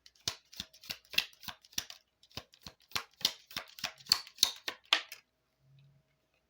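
Cards of a large tarot/Lenormand deck being shuffled by hand: a quick run of sharp snaps, three to four a second, that stops about five seconds in.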